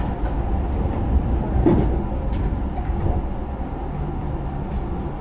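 Hanshin Railway electric commuter train rumbling as it moves off from a station stop, heard from on board, with a few sharp knocks from the running gear.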